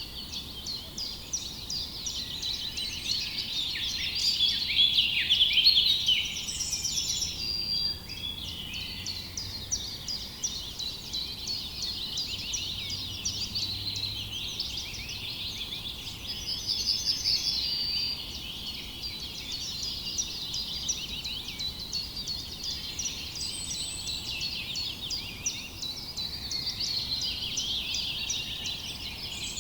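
A dense chorus of many small birds chirping and trilling, rapid high chirps overlapping without a break, loudest about five seconds in and again briefly around seventeen seconds.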